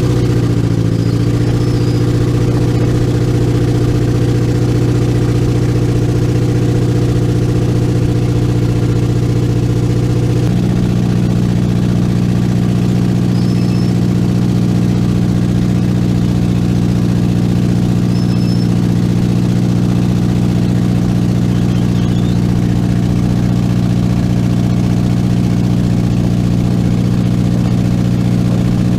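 Boat engine running steadily, its note changing about ten seconds in.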